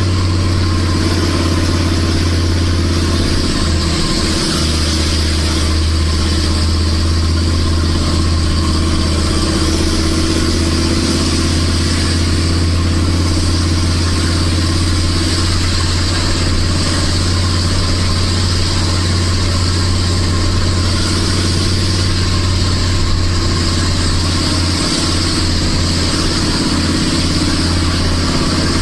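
Nissan Diesel RH10 V10 diesel truck engine running loud at steady revs, its deep low note holding even with no gear change or rev swing.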